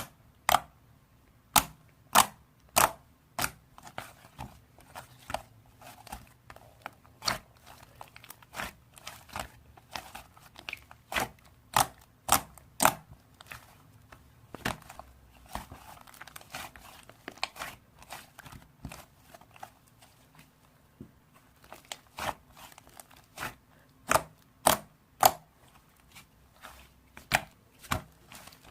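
Irregular sharp clicks and snaps close to the microphone, one to three a second, with soft crackling between them.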